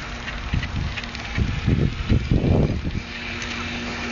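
Wind buffeting the microphone in gusts while riding, loudest in the middle, over a steady low hum from a distant engine.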